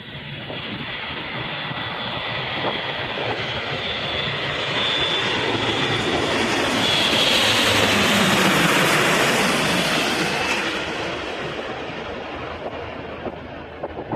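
Large fixed-wing aircraft flying low past. Its engine noise swells to a peak about two-thirds of the way through and then fades, the pitch dropping as it passes.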